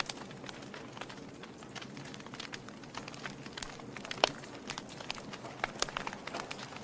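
Wood fire burning in a fireplace, crackling with irregular sharp pops over a soft steady hiss; one pop a little after four seconds stands out as the loudest.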